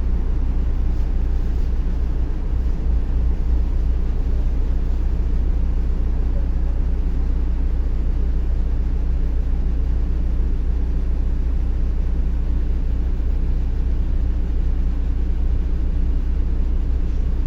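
Steady low engine and road rumble heard inside the passenger cabin of a MAZ-105 articulated city bus under way, with no change over the whole stretch.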